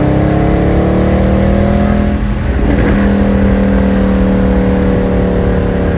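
Mercedes-Benz C63 AMG (W204) 6.2-litre V8 pulling under acceleration, its note rising for about two seconds. A brief break follows as it shifts up, then it settles into a steadier, lower note.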